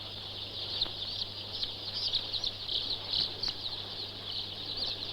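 A large flock of young chickens in a rearing house peeping continuously, many short high calls overlapping, over a steady low hum.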